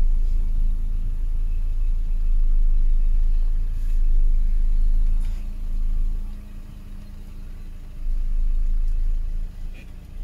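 Car engine idling, heard inside the cabin as a steady low rumble with a faint hum; the rumble drops back for a couple of seconds just past the middle.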